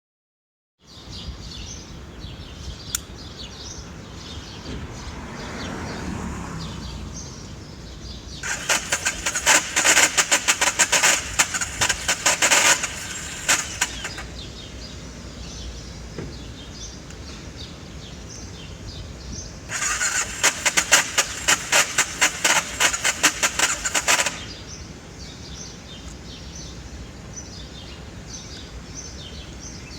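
Cold BMW F650 motorcycle engine cranked on its electric starter in two separate tries, each a few seconds of rapid, even chuffing that stops without the engine catching. This is a hard start: the first try is with the choke partly pulled, the second with the choke off.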